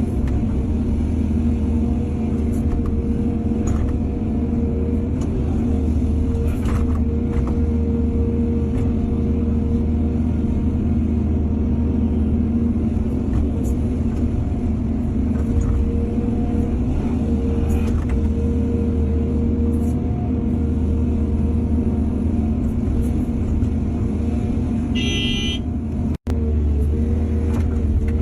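Heavy diesel earthmoving machinery, an excavator loading soil onto trucks, running steadily under load, with occasional metallic clanks. Near the end a brief high-pitched beep sounds, then the sound cuts out for an instant.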